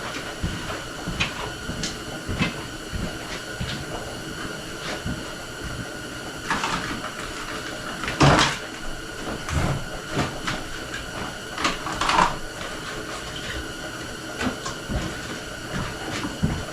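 Irregular knocks and clatter of parts and objects being moved about and handled, the loudest about eight seconds in, over a faint steady hum.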